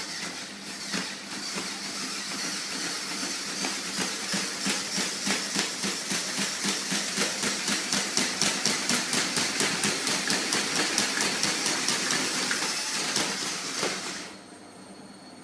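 Magnet-engine ornithopter running, its flapping wings and drive mechanism giving a steady, rhythmic beat of about three strokes a second over a noisy hiss, then stopping suddenly near the end.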